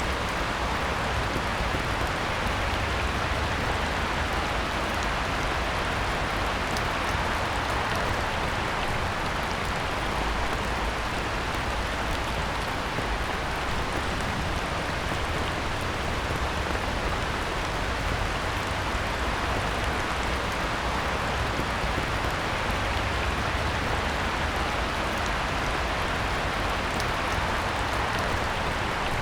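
Heavy rain falling steadily on a pond's surface, an even, unbroken hiss of many drops.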